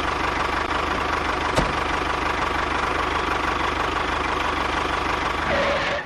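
A small motor running steadily, with one faint click about a second and a half in, fading out at the very end.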